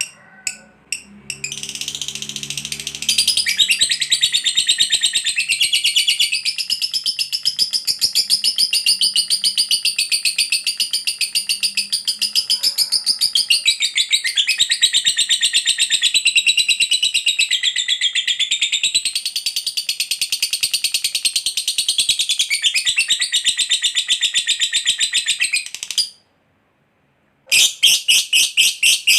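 Lovebird giving a long, rapid, high-pitched chattering trill (ngekek panjang) that runs unbroken for over twenty seconds, stops briefly near the end and starts again. Faint music fades out in the first few seconds.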